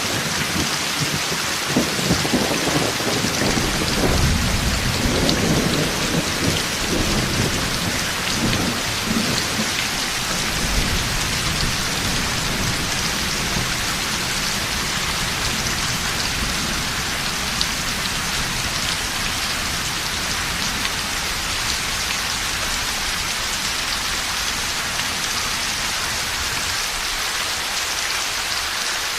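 Heavy rain pouring steadily, with thunder rumbling low over roughly the first ten seconds before it fades, leaving only the rain.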